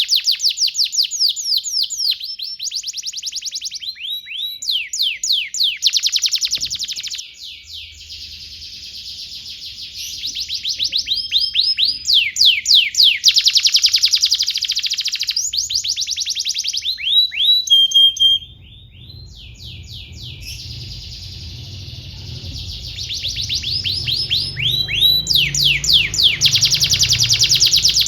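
Domestic canary singing a long song made of rapid trills and rolls, each a fast run of repeated notes, with a short pause about a quarter of the way in and another about two-thirds through.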